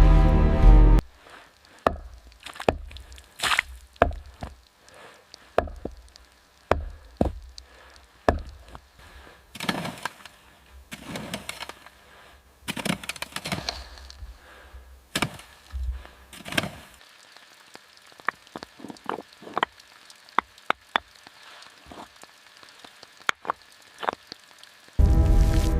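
Wood being chopped and split by hand: a long series of irregular strikes with cracking and splintering. The blows are heavier at first, and lighter and sharper in the last several seconds.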